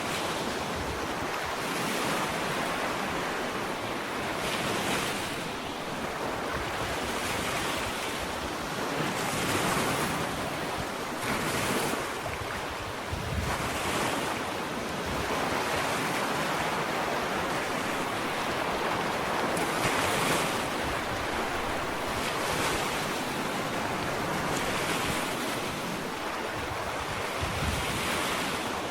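Ocean waves breaking and washing up a sandy beach, a steady surf with a fresh swell of spray every couple of seconds.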